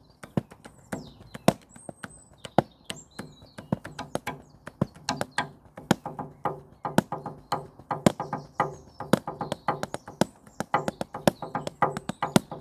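Drum kit played with drumsticks in a free improvisation: quick, irregular runs of strokes on drums that ring with a low pitch, broken by occasional much louder single accents.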